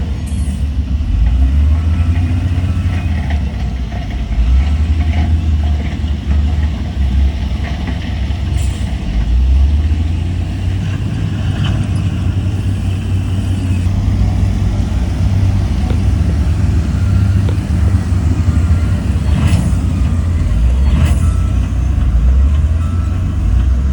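Heavy diesel earthmoving machinery running under load, a deep steady rumble, with a few sharp clanks of metal or rock.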